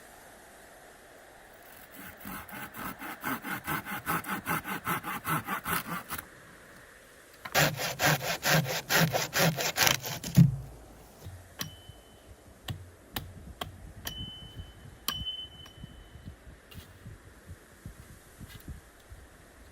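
Hand saw cutting through wood in back-and-forth strokes: a steady bout of about three strokes a second, then a short pause, then a louder, faster bout. It ends about ten seconds in with a heavy thud as the cut piece drops, followed by scattered small clicks and knocks.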